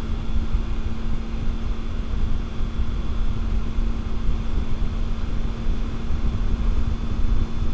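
Wind rushing and buffeting over the microphone while a motorcycle cruises at a steady speed, with an even engine hum under it. The bike is a Triumph Tiger 800, whose three-cylinder engine holds one steady note throughout.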